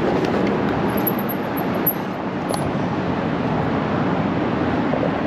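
Steady rushing noise of a bicycle being ridden: wind on the microphone and tyres rolling, even throughout.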